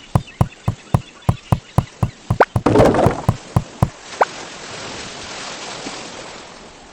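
A rapid, regular run of sharp clicks or plops, about four a second, with a short noisy burst near the middle. The clicks stop about four seconds in and leave a steady hiss with a single click.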